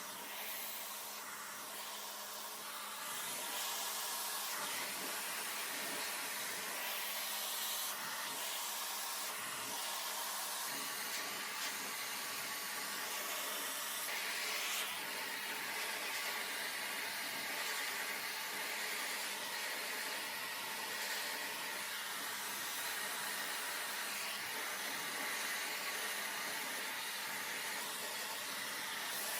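Handheld hair dryer running, its motor humming under a steady rush of blown air, louder about three seconds in and swelling a little as the airflow shifts while hair is dried.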